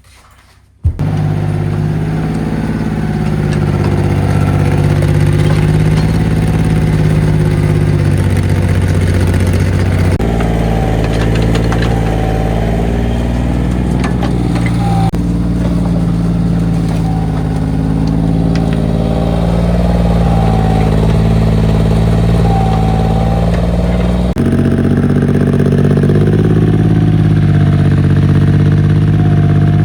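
Mini excavator's diesel engine running steadily under load, with a wavering higher tone that rises and falls as the hydraulics are worked. The sound starts suddenly about a second in and shifts abruptly several times.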